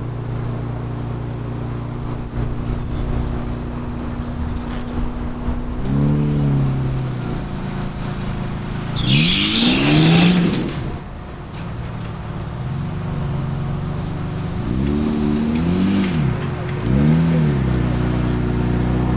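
Off-road trial rock crawler's engine running at a steady idle and revved in short blips: once about six seconds in, hardest around the middle with a loud rushing hiss over it, and several quick blips near the end.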